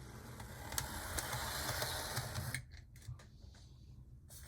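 Motor and gears of an HO-scale Life-Like Proto FM C-Liner model locomotive running with a steady whir, cutting out about two and a half seconds in. The drive sounds like it's running well.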